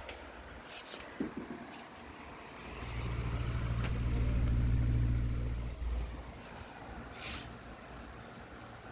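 Electric table fan motor humming for about three seconds, a steady low hum that swells and then stops, with a few sharp clicks before and after.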